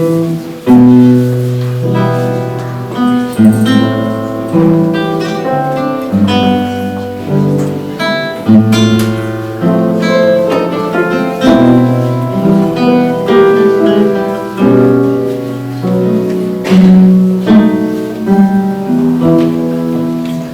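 Solo acoustic guitar playing a piece, plucked melody notes over a moving bass line.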